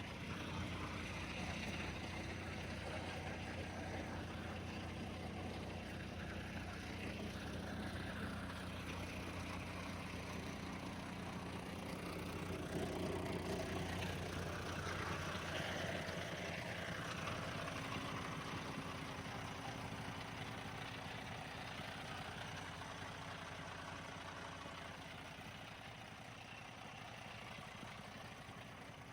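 Truck engine idling steadily, a low even running that eases off slightly over the last several seconds.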